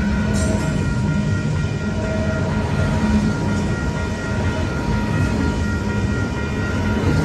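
Train rolling past at a railroad crossing: a steady, continuous rumble of rail cars on the track, with a faint steady ringing tone above it.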